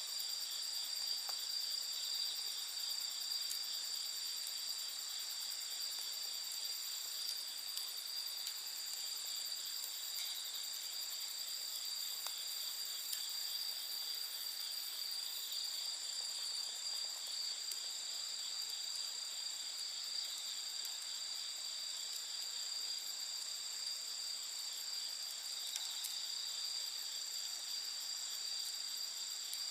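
A steady chorus of night insects, a continuous high trilling that does not let up, with a few faint crackles from a wood bonfire.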